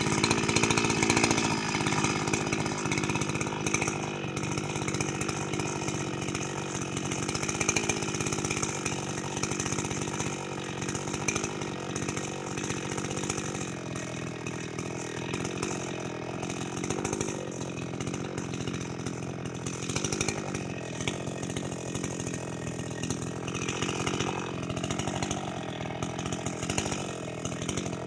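Gasoline chainsaw engine running steadily, a little louder in the first couple of seconds.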